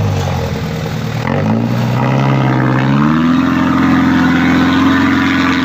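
Truck engine revving as the truck pulls forward through mud. The revs dip at the start, then climb steadily over about two seconds and hold high and steady while it works to push through.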